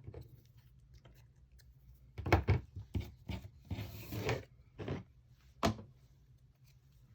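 Paper snips cutting cardstock: a run of short snips between about two and six seconds in, one slightly longer cut near the middle.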